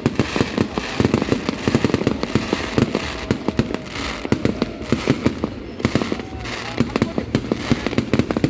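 Aerial fireworks display: a dense, continuous barrage of bangs and crackling bursts, many per second.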